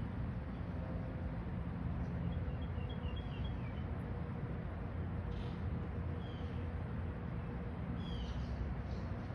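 Faint, short chirps of quaker parrots (monk parakeets): a quick run of them about two seconds in, then a few scattered single chirps, over a steady low rumble.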